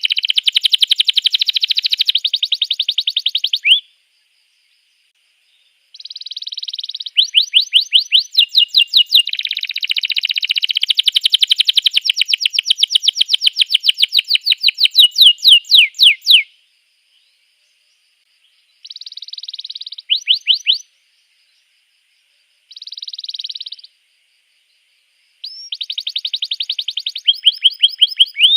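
Domestic canary singing: loud song phrases of rapid trills, the same high note or sweep repeated many times a second, broken by a few gaps of complete silence lasting a second or two.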